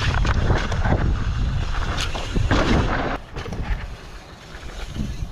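Mountain bike riding off a drop and landing flat, with sharp thuds about two seconds in. Heavy wind rumble on the microphone through the first few seconds, then quieter.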